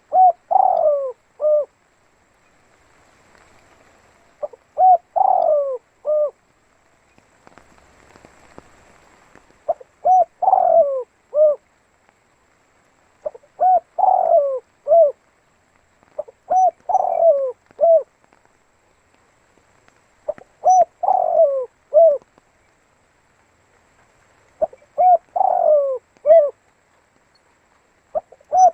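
Spotted dove (tekukur) cooing: a short multi-note phrase with a falling middle note, repeated about every three to four seconds, eight times.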